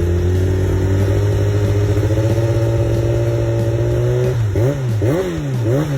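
Racing motorcycle exhaust held at steady revs, its note climbing slightly. About four seconds in it breaks into quick, repeated blips of the throttle, the pitch rising and falling with each rev.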